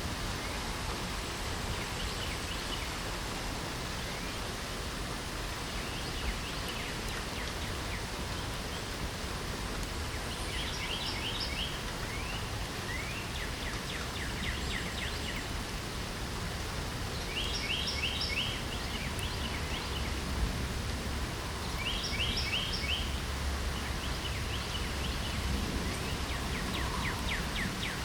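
Steady hiss of light rain with songbirds singing over it: short phrases of rapid high notes that come back about every four or five seconds.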